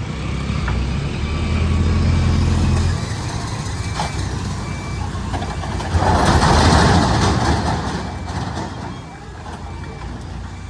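Heavy truck diesel engine running, louder in the first few seconds, with a reversing alarm beeping faintly. About six seconds in, a loud rush of hissing lasts about two seconds.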